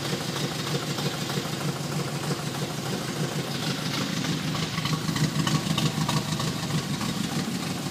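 Triumph TR4's four-cylinder engine idling steadily.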